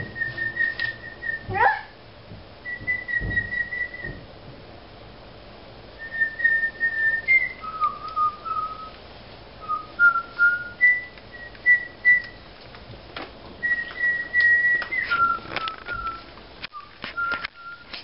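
A person whistling bird-call imitations: runs of short warbled notes, some high and some a little lower, repeated in several phrases with pauses between them.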